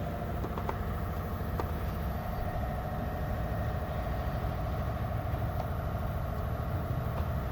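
Toyota 1SZ-FE 1.0-litre inline-four engine idling steadily and evenly, with a couple of faint clicks early on.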